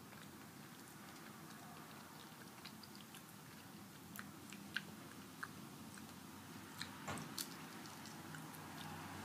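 A person chewing and biting into tortilla chips (nachos), faint, with scattered small crunchy clicks that come more often and sharper in the second half.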